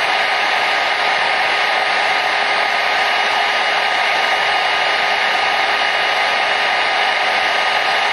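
Hair dryer running continuously: a steady, even rush of airflow with a faint motor whine.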